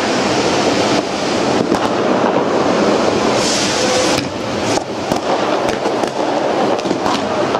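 New Year's Eve fireworks going off in a dense barrage: continuous crackling with many sharp bangs, and a brief hiss a little past the middle.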